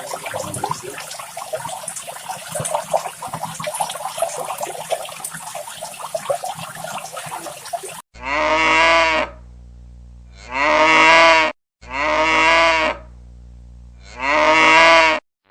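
A cow mooing four times in the second half, each moo a long, pitched call of about a second. It is preceded by several seconds of irregular crackling, rustling noise.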